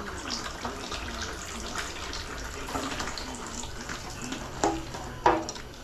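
Transmission fluid pouring and splashing out of a GM 4L60 automatic transmission as its oil pan is pried loose, a steady trickling run, with a couple of light knocks near the end.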